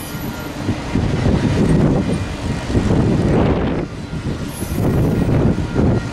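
Freight train's autorack cars rolling past: a steady rumble of steel wheels on rail, broken by irregular clacks.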